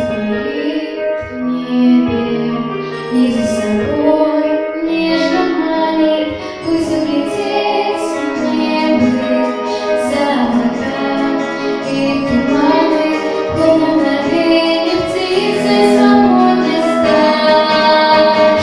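A young girl singing a pop song in Russian over instrumental accompaniment, her voice carrying the melody throughout.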